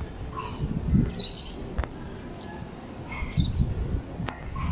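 Birds chirping: short bursts of high calls about a second in and again a little after three seconds, with low rumbling bursts underneath.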